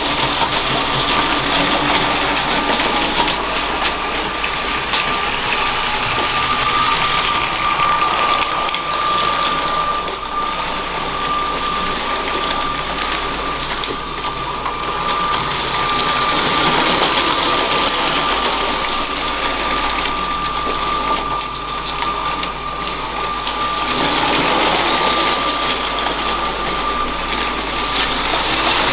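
Motorised LEGO freight train running on plastic track: a steady, high electric-motor whine over the rattle and clicking of its wheels on the rails.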